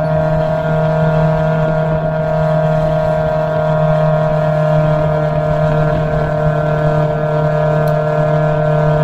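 Open-cockpit race car's engine running hard at steady revs, its pitch holding level, with wind rumble on the microphone.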